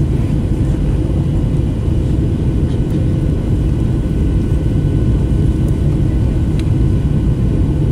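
Steady low rumble of Boeing 737-800 cabin noise, with engine and airflow noise blended, holding an even level throughout, with a faint steady hum over it.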